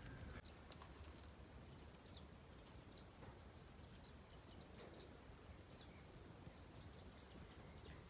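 Faint, high bird chirps, some single and some in short quick runs, over a low steady background noise.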